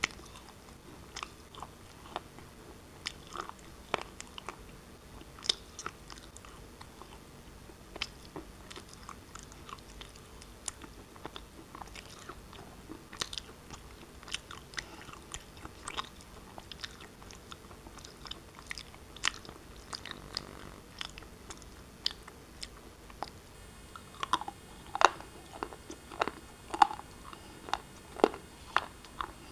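Pieces of black shale being bitten and chewed close to the microphone: a run of sharp, brittle crunches and cracks, louder and closer together over the last few seconds.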